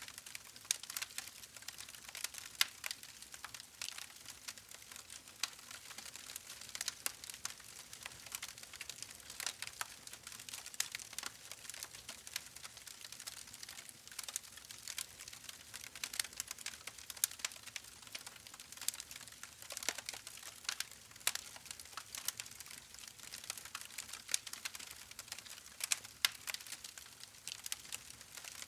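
Wood fire burning in a fireplace, crackling steadily with frequent small pops and snaps over a faint hiss.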